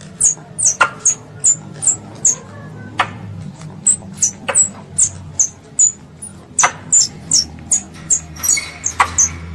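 Young squirrel calling for its mother: a quick series of short, very high-pitched chirps, each dropping in pitch, about three a second, with a few sharp clicks among them.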